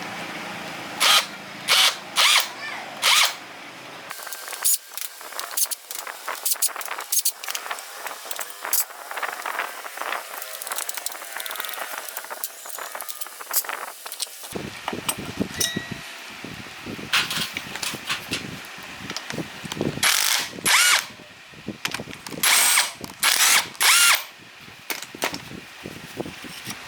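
A power tool run in short bursts, with many clicks and knocks of tools and metal parts being handled in between.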